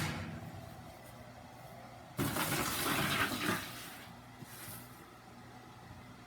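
A loud rush of running water starts about two seconds in and lasts about a second and a half, over a steady low hum. There is a short click at the very start.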